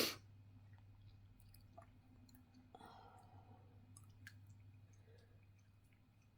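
Near silence: faint room tone with a low steady hum and a few faint small clicks.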